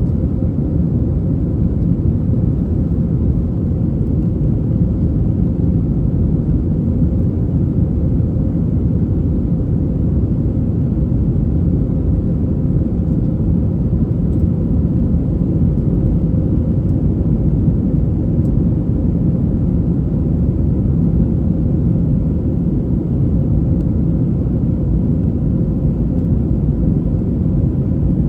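Airbus A321 cabin noise: a steady low rumble of the jet engines and airflow with a faint constant hum, unchanging throughout.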